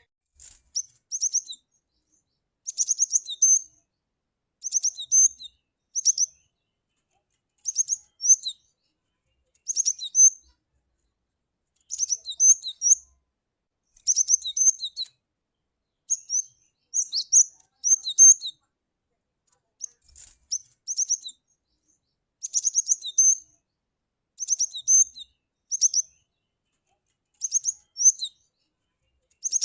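Cinereous tit (glatik batu) calling: short bursts of sharp, high chirps, repeated about every two seconds.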